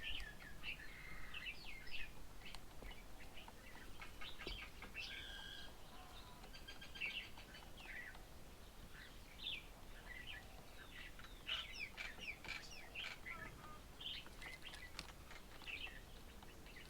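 Several small birds chirping and calling faintly: a steady scatter of short, high chirps with some quick sweeping notes, coming thickest near the start and again about halfway through.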